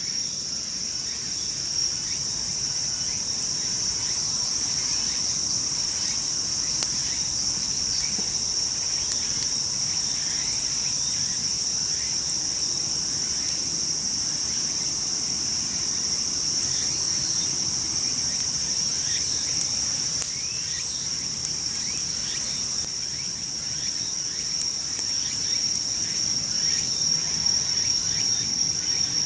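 Insects trilling steadily in one continuous high note, with the light, scattered crackle of a wood campfire underneath.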